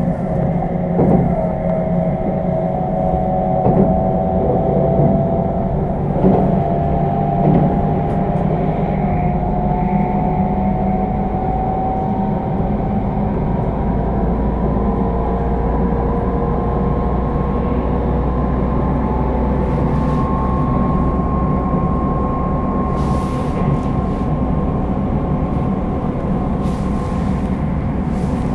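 Running noise of an electric train heard from inside the carriage: a steady low rumble with a whine that slowly rises in pitch as the train gathers speed. There are a few knocks in the first eight seconds.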